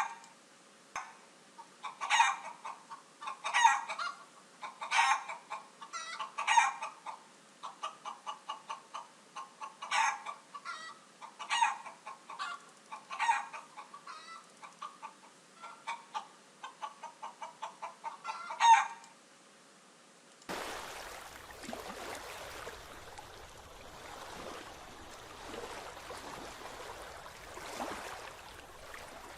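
Chickens clucking in quick runs, with a louder squawk every second or two. About two-thirds of the way through, this cuts off and gives way to a steady rushing noise.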